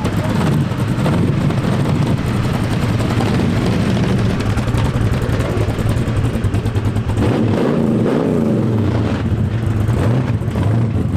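Motor vehicle engines running with a steady low drone, traffic passing, and a wavering higher engine note about seven seconds in.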